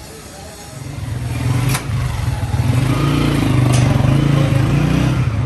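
An engine running close by, swelling about a second in and staying loud, with two sharp clicks over it.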